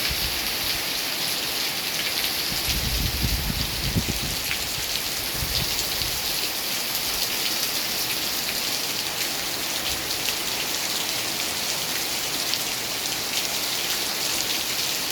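Steady rain falling, a continuous hiss dotted with individual drop ticks, with a low rumble for a few seconds starting about two and a half seconds in.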